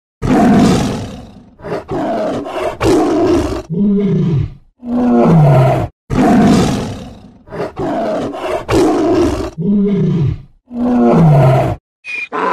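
Tiger roaring: one long, loud roar followed by shorter grunting calls that fall in pitch. The same series of calls repeats about six seconds in.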